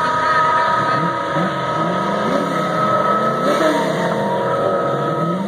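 Box Chevy Caprice's engine revving up and down in repeated short blips, pitch rising and falling several times, as the car rolls away down the strip.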